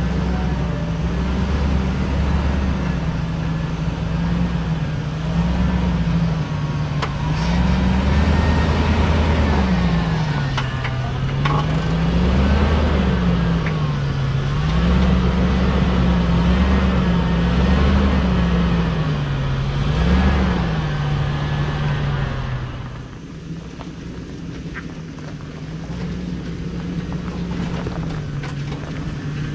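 Vehicle engine under way, its pitch climbing and dropping again and again as the throttle is worked, with a deep rumble at each climb. About three-quarters of the way through it settles to a steadier, quieter drone.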